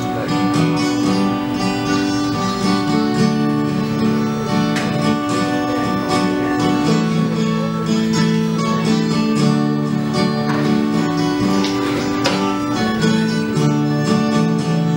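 Acoustic guitar playing an instrumental passage of a song, with a moving bass line under held chords.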